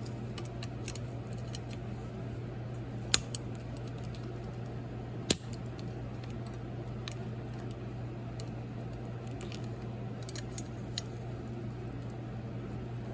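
Sparse light metallic clicks and taps of hand tools working the valve adjuster and its lock nut on a small four-stroke engine, with two sharper clicks about three and five seconds in, over a steady low hum.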